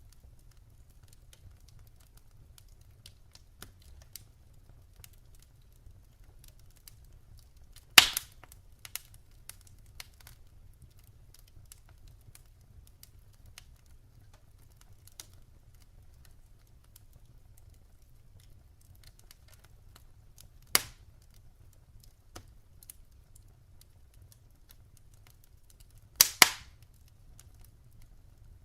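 Wood fire in a fireplace crackling: sparse small clicks, with a few loud sharp pops from the burning logs, one near a third of the way in, one about two-thirds in and a quick double pop near the end.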